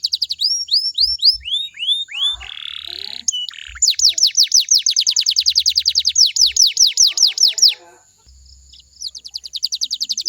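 Domestic canary singing fast trills of repeated high downward-sweeping notes, about nine a second, broken by a short harsh rasping note a few seconds in and a pause of about a second near the end before the trill resumes.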